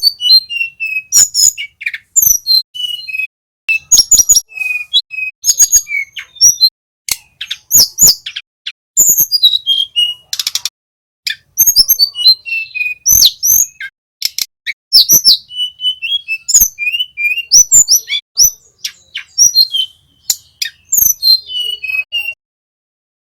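A small flycatcher singing a busy, continuous string of short high chirps, whistled notes and quick trills, broken by brief pauses.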